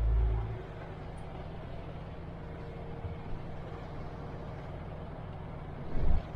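MAN TGX truck's diesel engine running with a steady low rumble. A heavy low thump fades out about half a second in, and another short one comes near the end.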